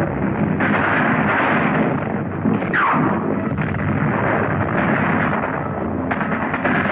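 Battle sounds on a 1940s film soundtrack: a dense din of artillery and gunfire explosions, with a brief falling whistle about three seconds in.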